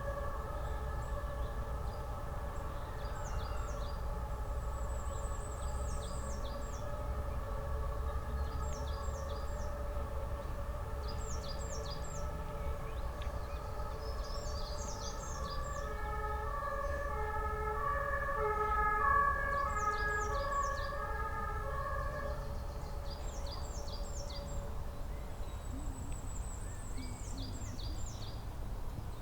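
Songbirds singing, repeating short high phrases of three or four quick notes with an occasional trill. Behind them a distant chord of several steady ringing tones swells and pulses, then stops about 22 seconds in, over a low rumble.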